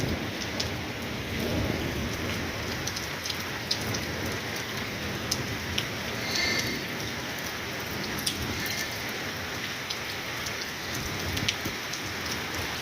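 Steady rain falling, with the sharp ticks of individual drops striking a surface scattered throughout.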